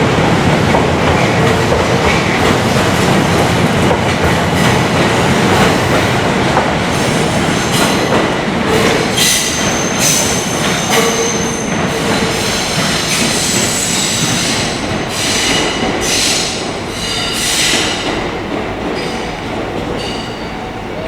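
Train running on the rails, its wheels clattering over the track, with high-pitched wheel squeal coming in about halfway through; the sound gradually gets quieter near the end.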